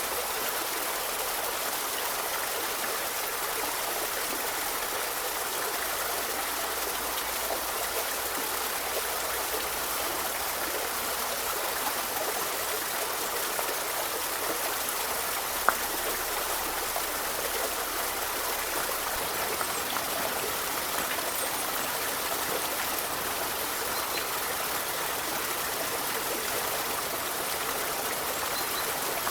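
Forest river flowing steadily, a continuous even rush of water, with a single sharp tick about halfway through.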